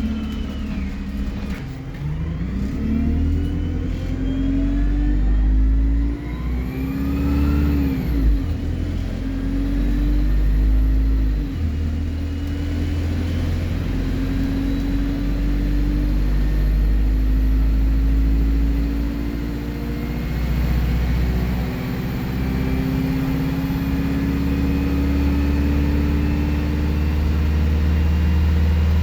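Alexander Dennis Enviro 200 bus's diesel engine accelerating, its note rising and dropping back through gear changes, with a high turbo whistle that climbs slowly from about eight seconds in.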